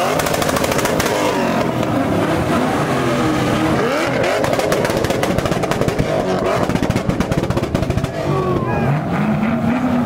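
Car engine revving hard, its pitch rising and falling, with tyres spinning in a drifting burnout.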